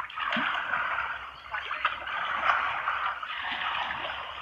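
Water splashing and rushing as a kayak paddle works through the water, the noise swelling and easing in waves a few times.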